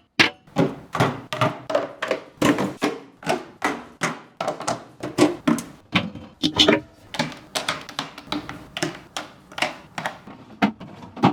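Food packages and containers being set down one after another, a quick series of knocks and taps about two to three a second, some with a short hollow ring.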